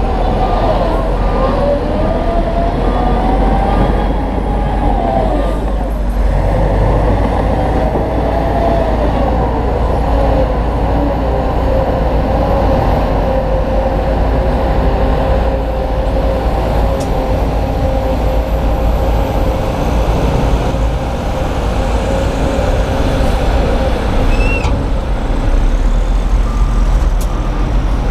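Heavy diesel earthmoving machinery working: engines run steadily, their pitch rising and falling as they rev under load. A reversing alarm beeps at the start and again near the end.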